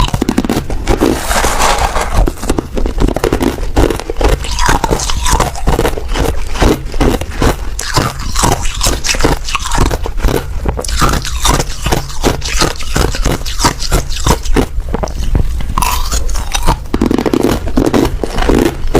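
A person chewing and crunching hard ice: a loud, continuous run of sharp cracks and crunches, several a second.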